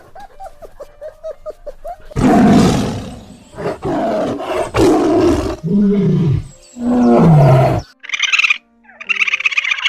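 A large animal giving a series of loud, deep, rough calls, several in a row, some sliding down in pitch. Faint short high yips come before them, and brief high-pitched calls near the end.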